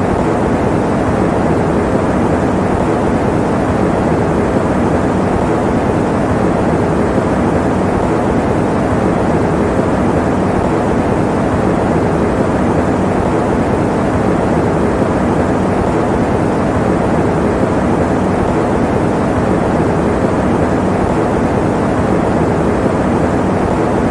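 Electric fan running steadily: a constant, even whooshing hum, heaviest in the low and middle range, with no changes.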